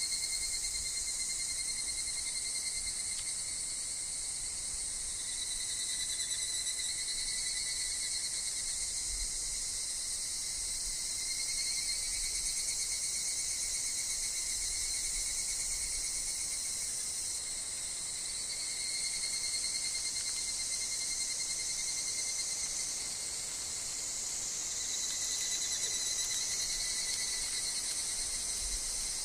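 Dense, unbroken chorus of singing insects, with higurashi (evening cicadas) calling among them. A high, steady shrill swells and eases slightly every few seconds.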